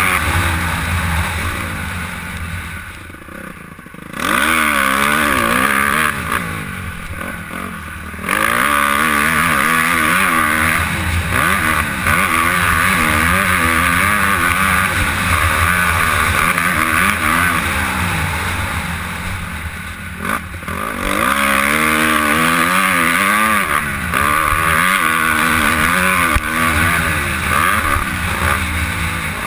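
Honda CRF250R's 250 cc four-stroke single-cylinder engine racing on a motocross track, heard from a helmet-mounted camera, its pitch rising and falling with the throttle. The throttle drops off twice in the first eight seconds and again about twenty seconds in, snapping back open each time.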